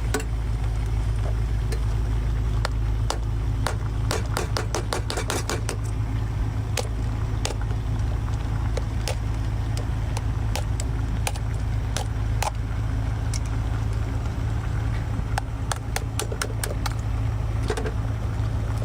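A boat's engine drones steadily at a low pitch under repeated sharp cracks and clicks of a tiger crab's shell being broken open. The cracking comes in quick runs about four seconds in and again near the end.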